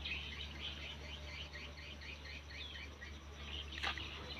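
Small birds chirping in quick succession, several short calls a second, some sliding in pitch, over a steady low hum. A single sharp click comes near the end.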